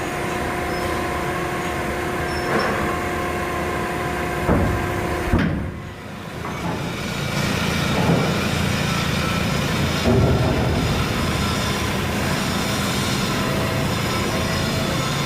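Steady machinery running with a low hum, two sharp knocks about four and a half and five seconds in, then a brief sudden drop before the running noise returns.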